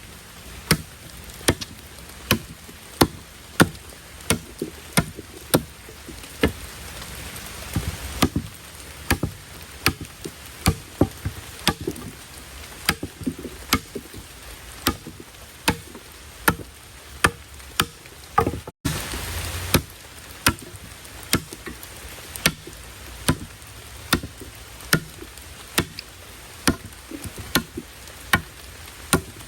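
Steady chopping with a blade, a sharp knock about every two-thirds of a second, over the hiss of heavy rain. The strokes break off for a moment a little past the middle, then carry on.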